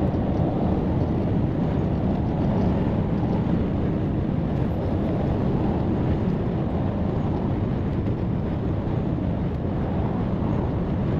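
Steady engine and road noise inside a moving truck's cab.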